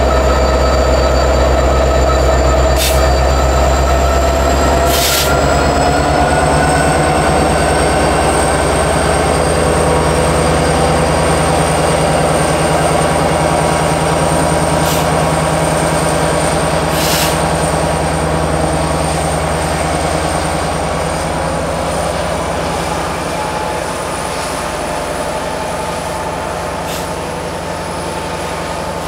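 Canadian Pacific freight train of tank cars rolling slowly past, its steel wheels squealing in a steady high whine that slowly climbs in pitch, over a low rumble and a few sharp clanks. It grows a little quieter near the end.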